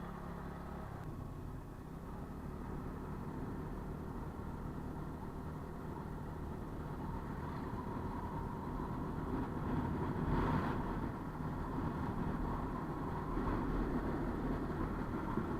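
TVS Ntorq 125 scooter's single-cylinder engine running steadily while riding, with road and wind noise. There is a brief louder swell about ten seconds in.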